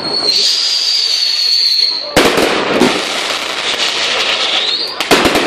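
A fireworks display: a high, steady firework whistle for about two seconds, then a sharp bang followed by crackling. Another whistle rises and falls near the end, followed by more bangs.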